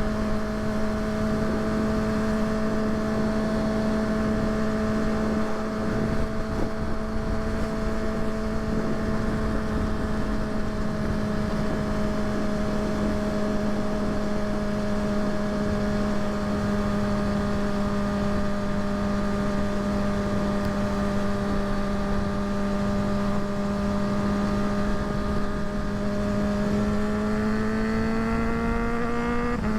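Kawasaki ZX-6R inline-four engine running at a steady cruising speed over a steady rushing noise, its pitch rising in the last few seconds and then dropping sharply as the rider shifts up a gear.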